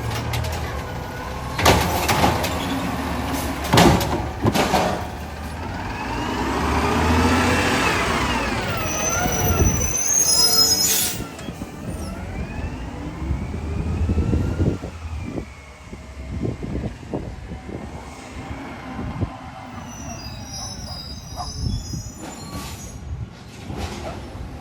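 Garbage truck at work: its engine runs with sharp metallic clanks about two and four seconds in, then a wavering high whine that rises and falls. After that the engine settles to a quieter running sound with scattered knocks.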